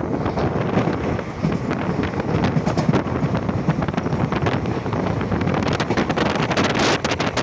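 Express passenger train running at speed, its wheels and coaches making a steady rumble with wind buffeting the microphone. Late on, a quick run of sharp clicks and rattles cuts through the noise.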